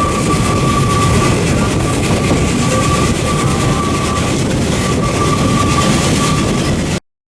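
A train running on the rails, a steady loud noise with a faint high whine that comes and goes. The sound cuts off abruptly near the end.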